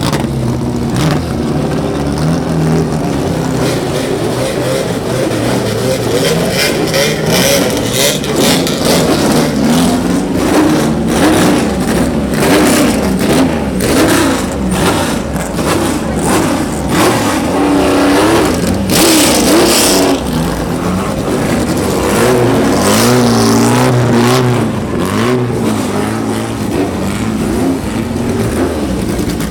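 Classic racing cars' engines revving and accelerating as several cars go by on the circuit, their pitches rising and falling over one another. The loudest close pass comes about two-thirds of the way through.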